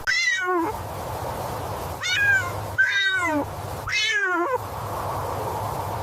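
A cat meowing four times, each meow high and falling in pitch, over a steady background hum.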